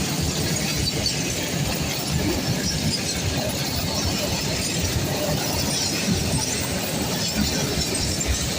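Freight train wagons rolling past on the track, a steady rumble with rattling and clinking of metal.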